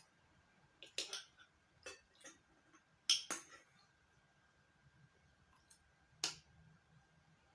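Eating sounds: cutlery clinking against a plate or bowl in a few short, sharp clicks, loudest about three seconds in and once more near the end.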